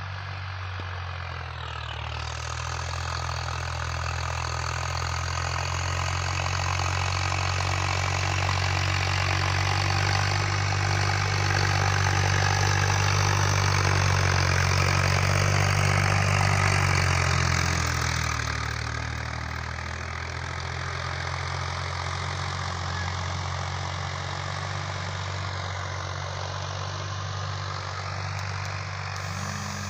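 Diesel tractor engine running steadily, growing louder through the first half and easing back around two-thirds of the way in.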